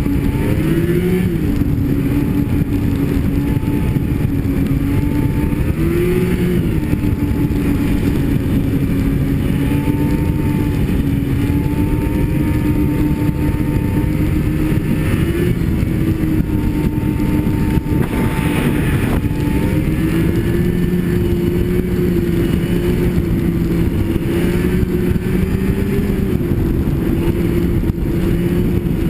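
Snowmobile engine running at speed, its pitch lifting briefly with the throttle a few times, over a constant low rushing noise.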